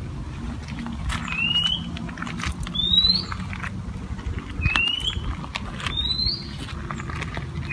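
A bird calling over and over: a short rising whistle followed a second or so later by a higher rising whistle, the pair repeating about every three seconds. Underneath are a low steady hum and a few light clicks.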